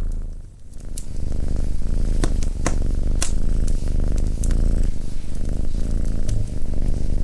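A domestic cat purring steadily and close, the purr fading out for a moment just under a second in and then resuming. Sharp crackles and pops from a fireplace wood fire come through the purr, the loudest a few seconds in.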